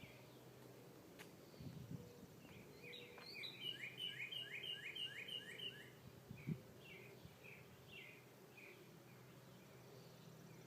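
A songbird singing a quick run of about eight slurred, falling notes, then several slower separate notes. A faint steady low hum lies underneath, and a soft thump comes about six and a half seconds in.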